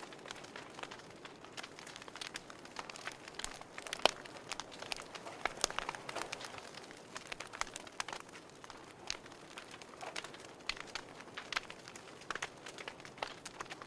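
Wood fire burning in a fireplace, crackling with irregular sharp pops and snaps over a soft hiss; the loudest pop comes about four seconds in.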